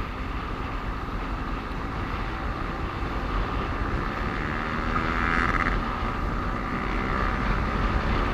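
Motorcycle riding on a busy road: a steady engine and traffic rumble, with a brief higher tone about five seconds in.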